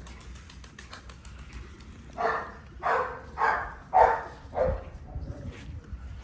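Tibetan mastiff barking five times in quick succession, starting about two seconds in.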